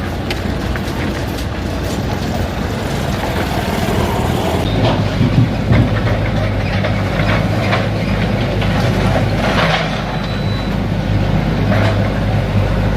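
A train running on the rails: a steady low hum under a broad rumble, with a run of sharp clacks from the wheels over the middle stretch.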